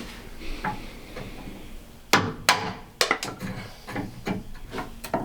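Irregular sharp wooden knocks and clunks of timber boards being handled and knocked into place. There are several in quick succession from about two seconds in, after a quieter start.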